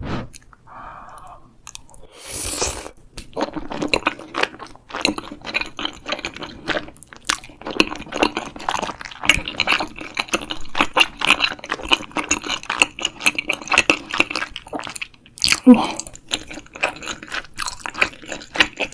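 Close-miked eating of tteokbokki, chewy Korean rice cakes in sauce: a dense, steady stream of chewing and mouth clicks starting about three seconds in.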